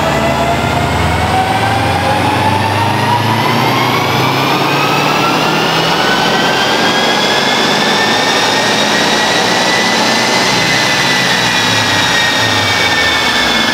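Subaru Impreza STI's turbocharged flat-four engine making a full-throttle pull on a chassis dyno, with the rollers whining. The pitch climbs steadily for about ten seconds as it winds up through the revs, then drops back a little near the end.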